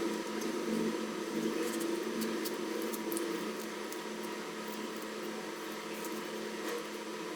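A steady, machine-like hum with a few faint light clicks.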